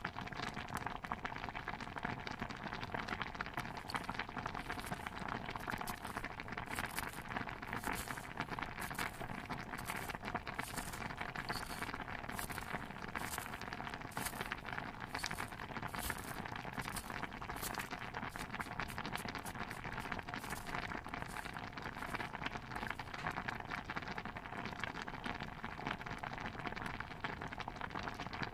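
Steady bubbling of a stew pot under a constant crackle, with knife chopping on top: sharp, even strokes about twice a second that start a few seconds in and stop about three-quarters of the way through.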